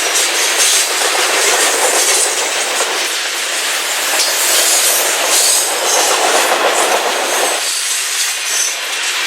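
A train passing, its wheels running loud on the rails. The lower part of the noise drops away a little before the end.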